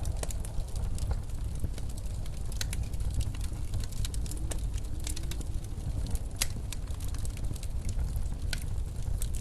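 Wood fire crackling in a fireplace, with irregular sharp pops and snaps, over the steady low rumble of blizzard wind.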